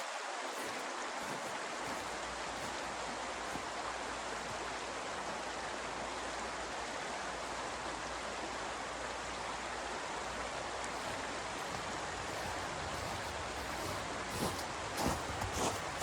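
Steady, even rushing hiss, with a few light knocks near the end.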